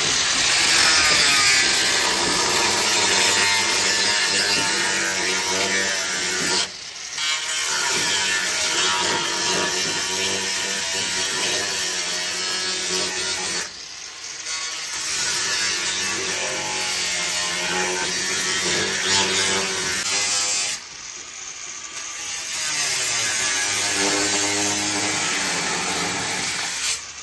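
Power tool working on car body metal, running in four long stretches with brief pauses between them.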